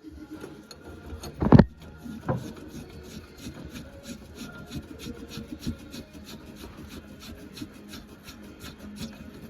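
Hand socket ratchet clicking in a fast, even rhythm as it turns a fastener, with one loud metal knock about one and a half seconds in.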